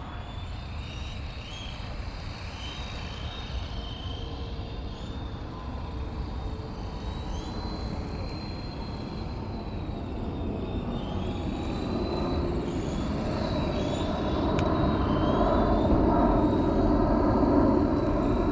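Radio-controlled car's 13.5-turn brushless electric motor whining, its high pitch rising and falling with the throttle, over a steady rushing of rolling noise that grows louder over the last few seconds.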